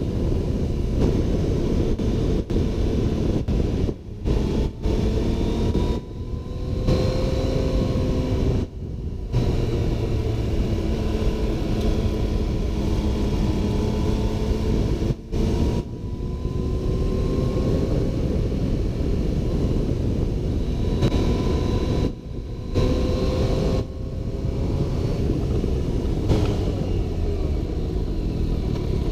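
Motorcycle riding at road speed: the engine runs steadily, its pitch slowly rising and falling, under a heavy low rumble. The sound drops out briefly several times.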